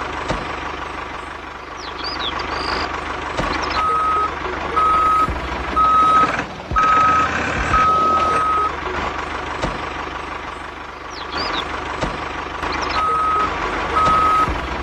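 DIY mini tractor's small electric motor running with a steady whine, while an electronic reversing-style beeper sounds about once a second, from about four seconds in for several beeps and again near the end.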